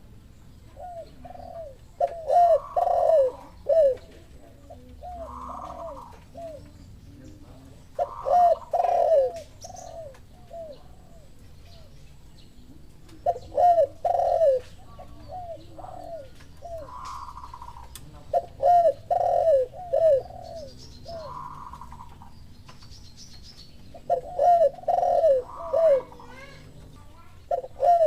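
Spotted doves cooing: phrases of several short, rhythmic coo notes repeated every few seconds, one bird answering another's call.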